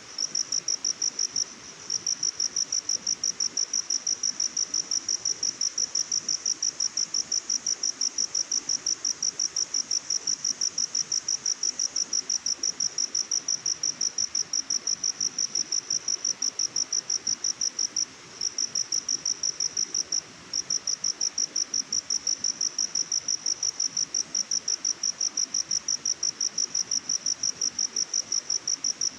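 A cricket chirping in a fast, steady high-pitched trill of rapid pulses that breaks off briefly a few times, over a soft steady hiss.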